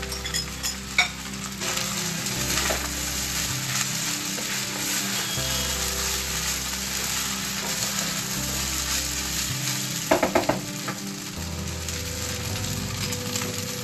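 Vegetable fried rice with paneer sizzling steadily in a hot non-stick pan while a wooden spatula stirs and tosses it, scraping and clacking against the pan. A cluster of louder clacks comes about ten seconds in.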